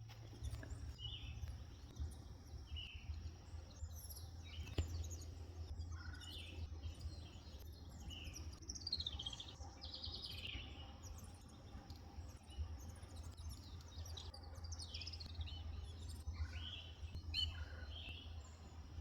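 Small songbirds chirping and chattering in short, scattered calls, some falling in pitch, over a steady low background hum. A sharp tap about five seconds in.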